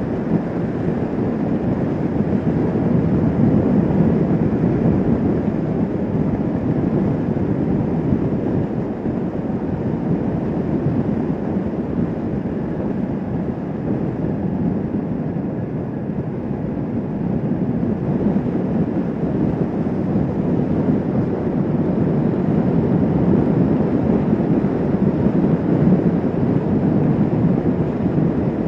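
Steady rush of wind on the microphone of a motorcycle cruising at speed, with the Kawasaki Vulcan S 650's engine and road noise underneath. It rises and falls a little but never stops.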